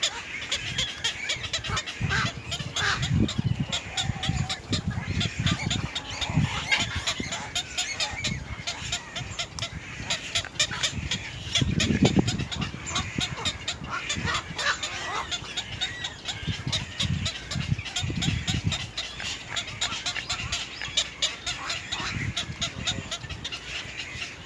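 Birds at a nest calling in rapid, harsh chirps and squawks, with repeated low rumbles, the strongest about halfway through.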